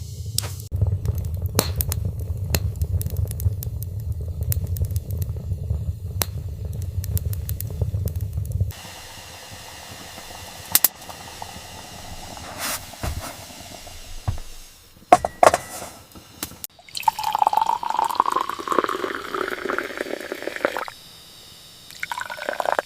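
Water sounds: scattered drips and splashes, and around the last third a few seconds of liquid pouring into a container, its pitch rising as it fills.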